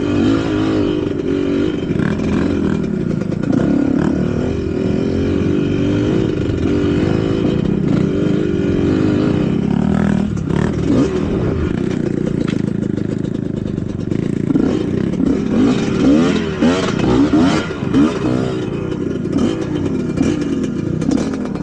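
Trail motorcycle engine running under load, its pitch rising and falling with the throttle, with quick rev swings near the end.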